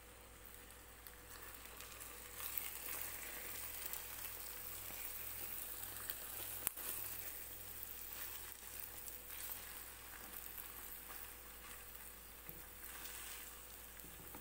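Egg omelette sizzling softly in a frying pan over a gas flame as it is folded over, with one sharp tap about seven seconds in.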